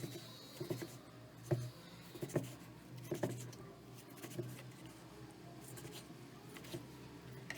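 Kitchen utensils knocking and scraping, with irregular light taps every half second to a second, over a steady low hum.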